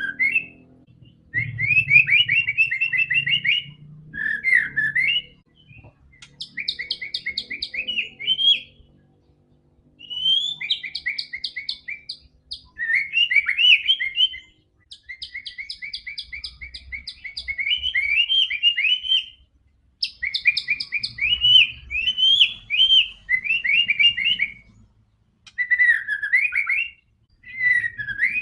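White-rumped shama (murai batu) singing vigorously: phrase after phrase of rapid chattering and whistled notes, each phrase a second or a few seconds long, with short pauses between them.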